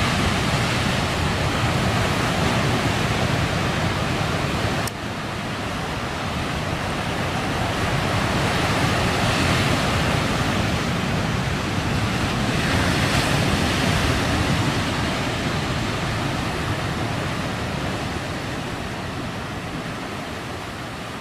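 Heavy typhoon surf breaking on the shore: a continuous rush of waves, broken abruptly about five seconds in, with louder breakers swelling twice later on before the sound slowly fades.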